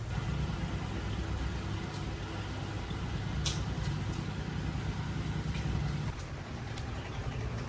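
An engine running with a low, steady rumble that comes up at the start and eases about six seconds in, with a few faint clicks over it.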